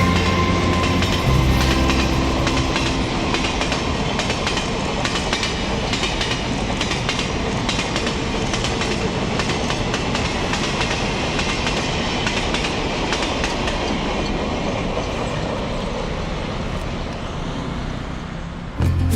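Freight train passing, its wheels clattering over the rail joints with a steady rumble. It grows slowly quieter toward the end.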